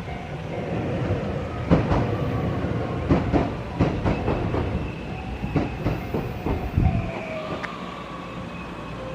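JR Nanao Line electric train running through the station, its wheels clicking in quick, uneven runs over the rail joints under a steady rumble. After about seven seconds the rumble fades and a thin, high wheel squeal carries on.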